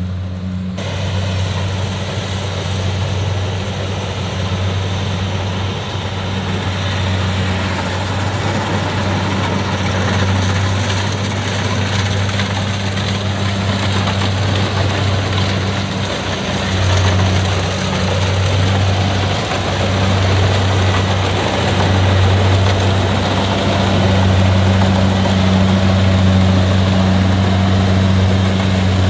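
Heavy harvesting machinery's diesel engine running steadily at constant speed: a deep, even drone under a dense mechanical din.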